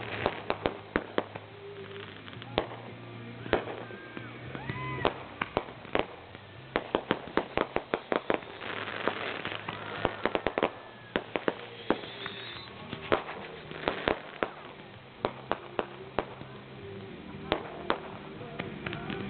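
Fireworks and firecrackers going off: many sharp pops and bangs in irregular clusters, with a few short whistles around four to five seconds in.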